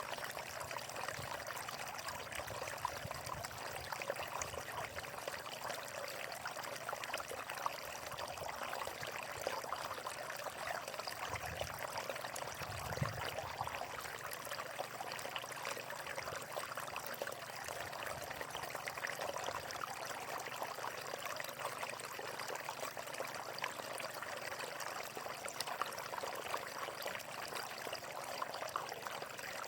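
Flowing water running and splashing steadily, the busy trickling sound of a stream.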